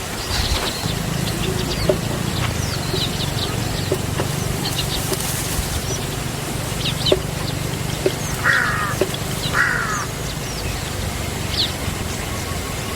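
Birds chirping: scattered short high calls, with two brief trills a little past the middle, over a steady low rumble.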